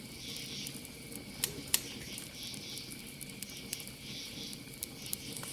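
Campfire crackling, with sharp irregular pops, the two loudest about a second and a half in, over a low steady rumble of the fire. Behind it, a steady high chorus of crickets.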